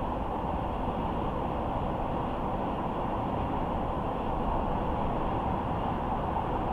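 Steady road noise of a car driving: tyres on the pavement and wind.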